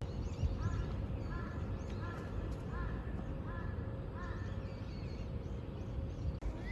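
A bird calling in a quick series of six or seven short, arched calls over about four seconds, over a steady low background rumble.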